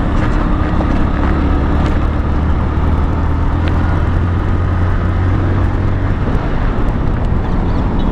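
Motorcycle riding at speed, its engine humming a steady low note over heavy wind noise, the engine note fading about six seconds in.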